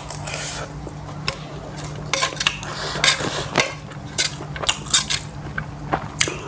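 Eating at a plate: a utensil clinking and scraping against the dish in scattered sharp clicks, over a steady low hum.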